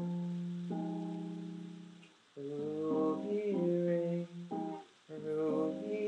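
Acoustic guitar playing the song's jazzy seventh chords: a chord struck and left ringing for about two seconds, then a run of chord changes.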